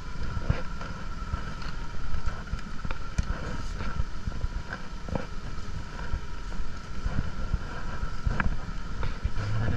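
Motorcycle engine running steadily, with wind rushing over the microphone and occasional small knocks and rattles.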